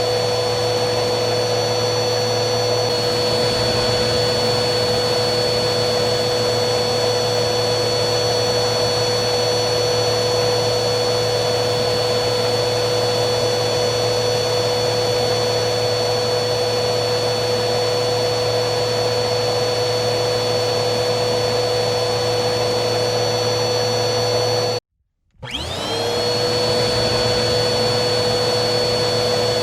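Vacuum cleaner running steadily: an even motor whine over airflow noise. About 25 seconds in it cuts out for half a second, then the whine rises quickly back up to speed.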